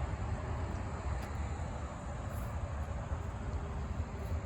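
Steady outdoor background noise with a fluctuating low rumble and a faint, steady high-pitched tone.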